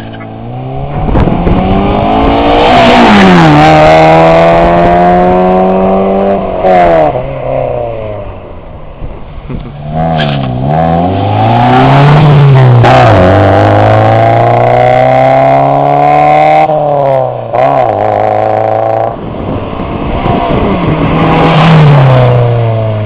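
Honda Integra's four-cylinder engine with a very loud exhaust, its engine speed climbing, holding and dropping again several times over.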